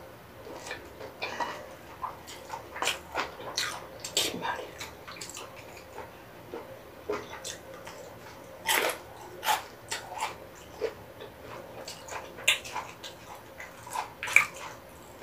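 Close-miked chewing and wet mouth sounds of someone eating tteokbokki, sundae and fried snacks, with irregular sharp smacks and clicks between softer chewing.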